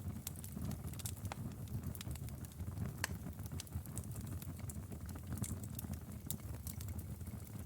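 Outdoor fire crackling: irregular sharp pops and snaps over a steady low rumble of burning.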